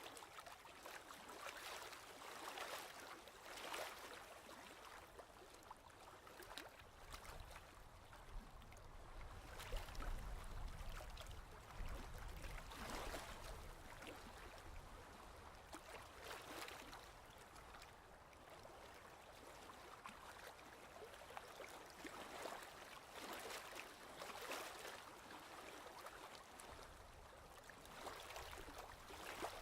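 Ocean waves washing in and out, a swell of surf hiss every few seconds, with a low rumble building in the middle.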